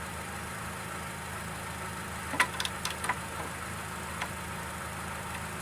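Oil dipstick being worked out of a Briggs & Stratton mower engine's fill tube, with a quick cluster of clicks and scrapes about two and a half seconds in and a single tick about four seconds in. A steady low engine hum runs underneath.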